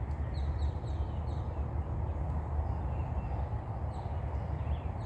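Birds chirping: a quick run of about five short high notes in the first second and a half, and a couple more about four seconds in, over a steady low rumble.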